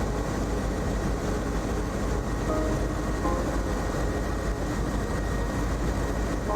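Helicopter in flight: a steady drone of engine and rotor noise with a thin, steady high whine.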